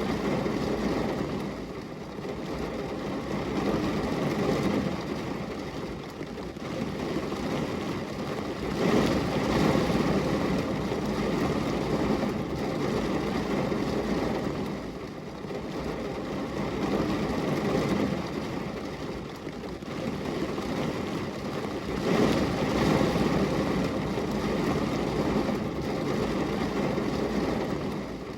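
Steady rain noise, a low, even rushing sound without distinct drops that swells and eases every few seconds.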